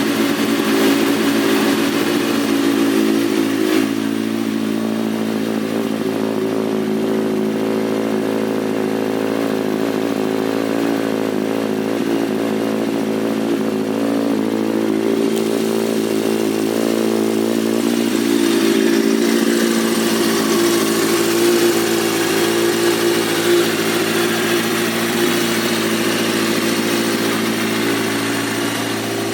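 2003 Kawasaki ZX-6RR's inline-four engine running steadily at idle through a Jardine aftermarket exhaust, a little louder about two-thirds of the way through.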